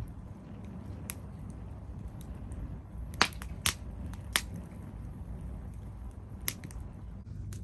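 Firewood burning, a few sharp crackling pops, the loudest just past the three-second mark, over a steady low rumble.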